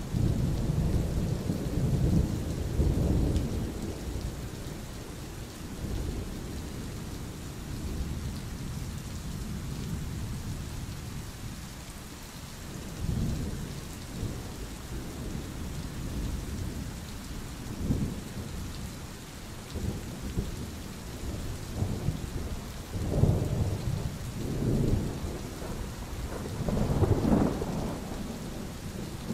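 Steady rain falling, with rolling thunder rumbling several times: heaviest in the first few seconds and again in a run of peals near the end.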